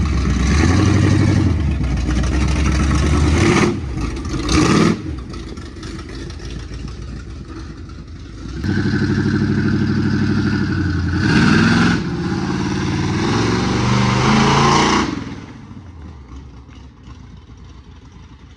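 Pickup truck engines accelerating hard, the engine note climbing and dropping through gear changes. There are two loud passes, one at the start and a longer one from about 9 to 15 seconds in, before the sound fades.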